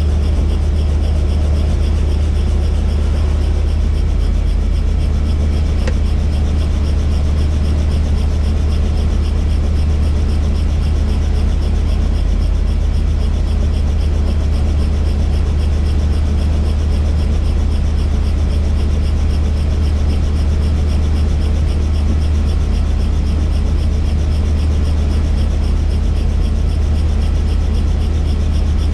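Helicopter engine and rotor running steadily with a loud, unchanging low drone.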